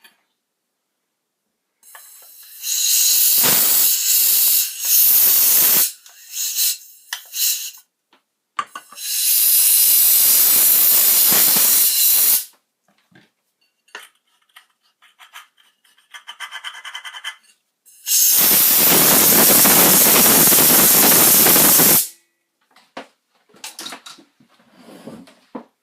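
Three long blasts of loud hissing spray, each lasting several seconds, with small clicks and rattles in the gaps between them.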